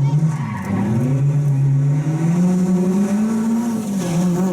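Rally car engine under load on a stage, its pitch dipping briefly about half a second in, then climbing steadily through the revs and dropping again near the end, as with a lift or gear change.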